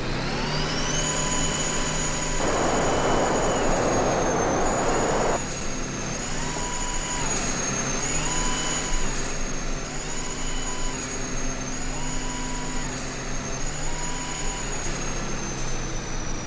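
Truck running with a high steady whine that climbs about a second in and then holds. A loud hiss lasts about three seconds a few seconds in.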